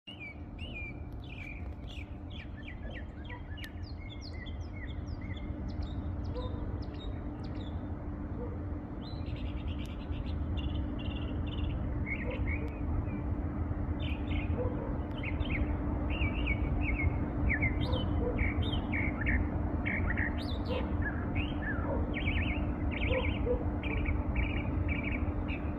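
Small birds chirping and tweeting in quick, repeated short calls, several overlapping, over a steady low rumble with a faint hum.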